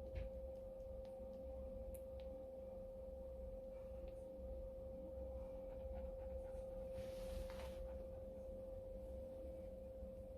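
A steady, pure high tone at one pitch, with a faint low hum beneath it and a brief soft rustle about seven seconds in.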